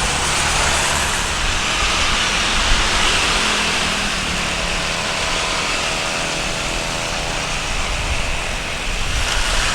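Boeing 737-800 jet engines, a steady loud rushing noise with a low rumble as the airliner comes in to land.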